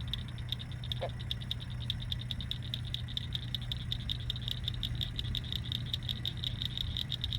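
Night chorus of frogs calling at a lake: a steady, rapid, high-pitched pulsing trill, over a low steady hum.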